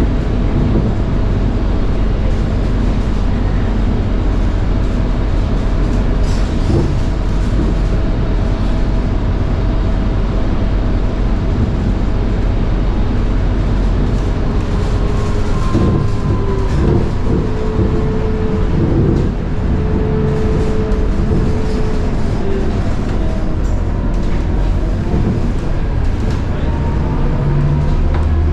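Scania K230UB bus under way, heard from inside: its Scania DC9 five-cylinder diesel and road rumble run steadily. A high whine from the ZF Ecomat 6HP504C automatic gearbox shifts and glides in pitch in the second half.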